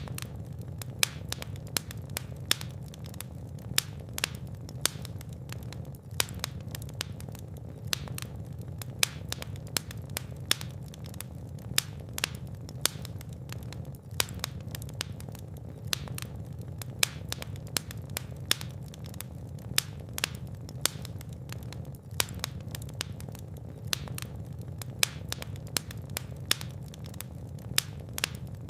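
Fire in a fireplace crackling, with frequent sharp pops and snaps over a steady low rumble of flame.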